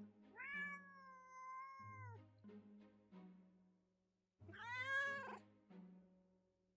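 Kittens meowing twice: a long, level meow about half a second in, and a shorter meow about four and a half seconds in whose pitch rises and falls. Soft background music with low sustained notes plays underneath.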